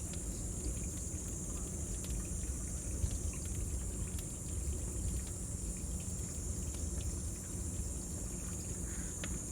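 Bonfire burning with scattered small crackles and a low steady rumble, under a constant high-pitched drone of insects shrilling.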